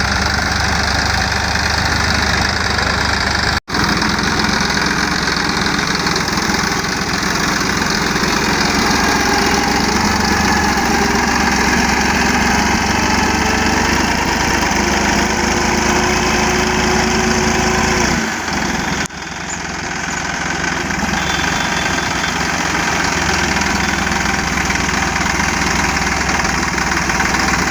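Massey Ferguson 9500 tractor's diesel engine running steadily while the tractor is stuck in a pile of husk. The sound breaks off sharply about four seconds in and again about two-thirds of the way through.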